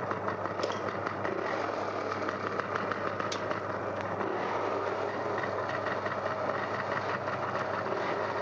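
Old Benelli 125 motorcycle engine running steadily, played back from an old vinyl record with a couple of surface crackles.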